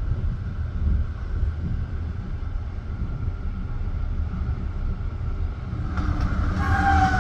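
Passenger train running, heard from inside the carriage: a steady low rumble of the wheels on the rails. Near the end a high, slightly falling squeal rises over it.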